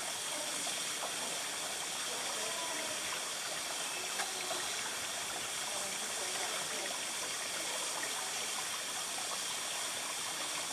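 Steady hissing rush of outdoor background noise, with faint distant voices about three seconds in.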